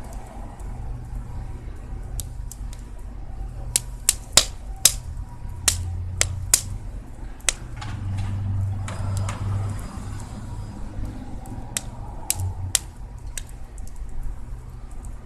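Small improvised bonfire crackling, with scattered sharp pops at irregular intervals over a steady low rumble.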